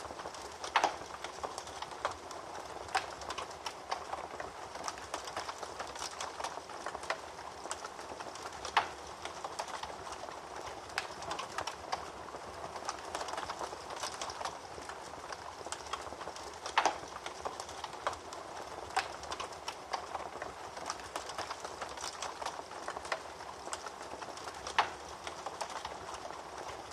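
Wood fire crackling in a fireplace: a steady hiss with constant small crackles, and a louder sharp pop about every eight seconds.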